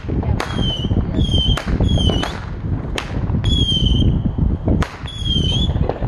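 Whistling fireworks going off in quick succession: short, high whistles about two a second, mixed with sharp cracks over a continuous low rumble.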